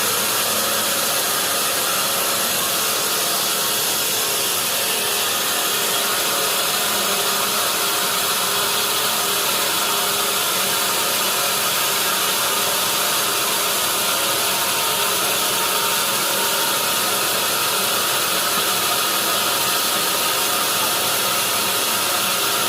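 Sawmill saw machinery running with a loud, steady, unchanging noise.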